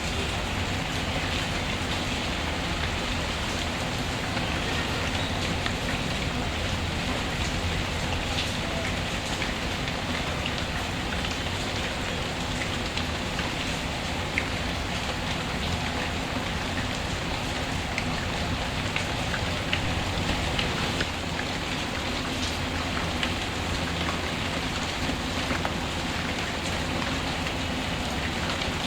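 Steady rain falling, an even patter, with faint scattered crackles of a wood fire.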